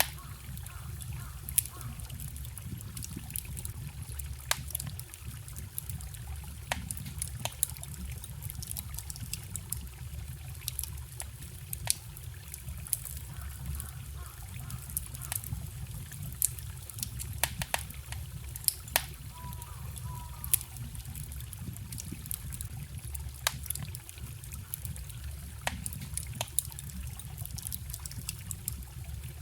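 Wood fire crackling, with many irregular sharp pops, over a steady trickle of a small forest stream.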